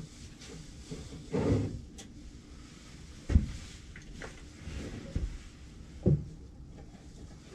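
Irregular knocks and clunks of objects being handled and set down on a workbench, about half a dozen scattered through, the sharpest about three seconds in.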